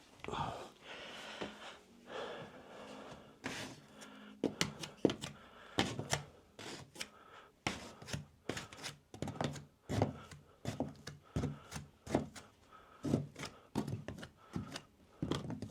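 Hand tool scraping and tapping at freshly applied cornice cement, cleaning off the excess: a soft scratchy scrape at first, then irregular short knocks and scrapes about once or twice a second.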